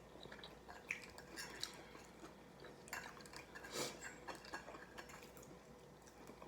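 Faint, scattered clicks and taps of eating: utensils against plates or food containers, with chewing. One slightly louder click comes nearly four seconds in.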